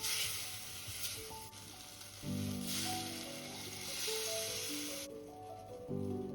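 Food sizzling in a hot pan, an even hiss that stops about five seconds in. Soft background music comes in about two seconds in.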